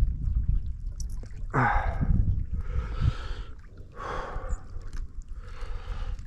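A man breathing hard after fighting a fish: four heavy breaths about a second apart, over a low rumble on the microphone.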